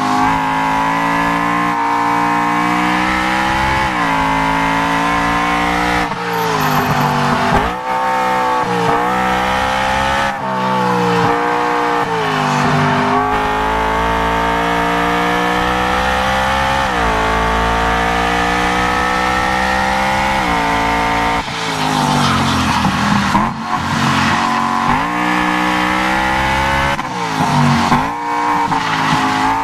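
BMW E90 M3's V8 engine heard from inside the cabin, pulling hard in third gear. The revs climb steadily and drop sharply under braking again and again from corner to corner.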